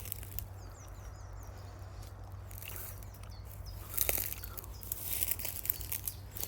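A small bird chirping: a quick run of short, high, falling notes about a second in and a few more near four seconds. Rustling and scuffing from about four seconds on.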